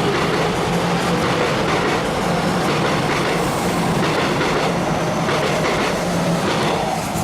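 Taiwan Railways train passing close by at speed: a loud, steady rush of wheels on rail with a low hum, dropping away at the very end as the train clears.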